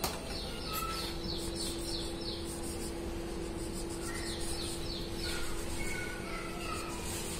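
Birds chirping in the background: runs of quick, falling chirps, several a second, in two bouts, with a few short whistled notes, over a steady low hum.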